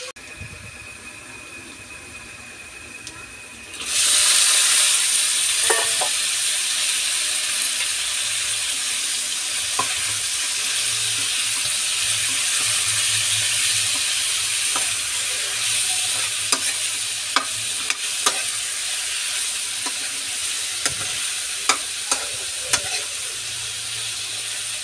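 Butter frying in a wok: a quieter sizzle of onions, then a sudden loud sizzle about four seconds in as whole shrimp go into the hot butter, carrying on steadily while they are stirred. Scattered sharp clicks of the spatula striking the wok come through the hiss.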